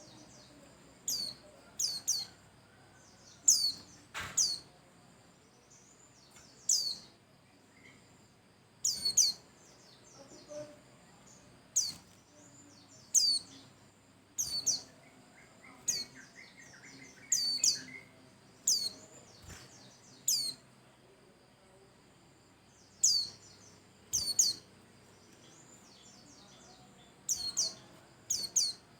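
White-eye singing: short, sharp, high-pitched calls, each a quick downward sweep, repeated every second or two and sometimes in quick pairs.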